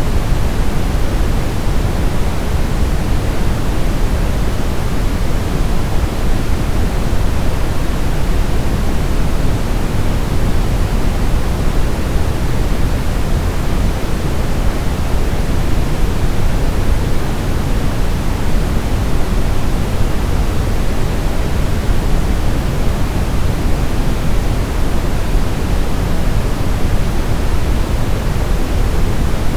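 Steady, unchanging synthetic white noise, heavier in the bass and thinning toward the treble, like pink noise.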